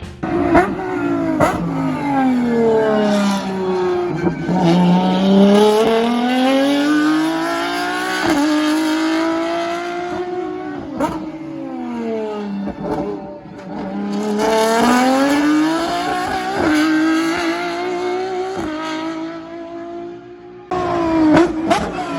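Lamborghini racing car engine at high revs, its pitch climbing through the gears with sharp breaks at each gear change, then falling as the car slows, and climbing again.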